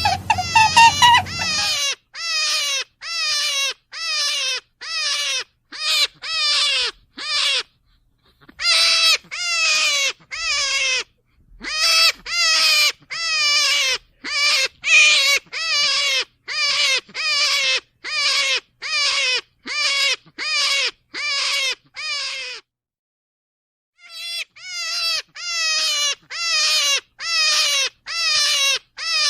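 A rapid series of short animal calls, each dropping in pitch, repeated a little under twice a second in runs broken by brief pauses. A different, louder call with a low hum comes just before the series starts.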